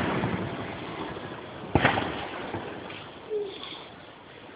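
Aerial firework shells bursting: the echoing rumble of a large burst fades away, a shell bursts with a sharp bang a little under two seconds in, and a smaller bang follows about three seconds in.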